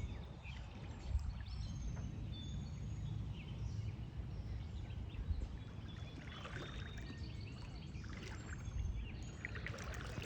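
Footsteps wading through shallow lake water, with splashes about six seconds in and again near the end. Small birds chirp now and then over a steady low rumble.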